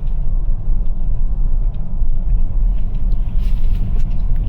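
Steady low rumble inside the cabin of a Toyota RAV4 Prime driving slowly on a snow-covered road: tyre and road noise from its Blizzak snow tires.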